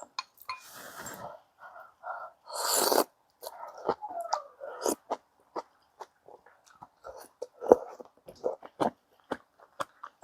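Close-miked eating sounds: chewing and slurping broken up by many small clicks and knocks, with a louder breathy burst about three seconds in.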